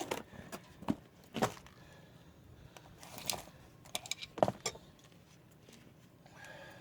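Scattered metallic clinks and taps of hand tools and brake hardware being handled during a brake job, several separate ones, the sharpest about four and a half seconds in.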